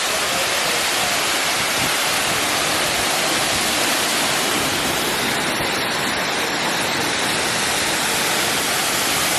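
Waterfall's steady, loud rush of falling water, heard up close.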